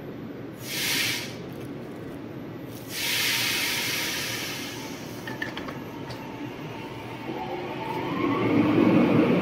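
Taiwan Railway EMU900 electric commuter train at a platform: a short burst of air hiss, then a longer one, then an electric motor whine rising in pitch over a growing rumble as the train starts to pull away.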